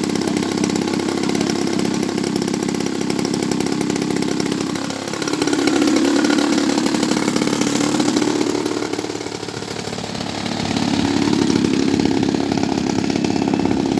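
Small gasoline engine of a radio-controlled model airplane running, with its buzzing engine note falling about five seconds in, climbing again near eight seconds, then dipping and climbing once more around ten seconds.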